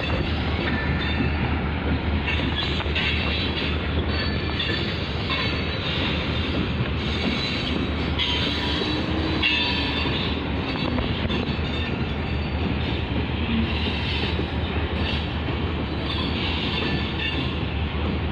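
Freight train of tank cars rolling past: a steady, loud rolling rumble with short high-pitched squeals from the wheels coming and going.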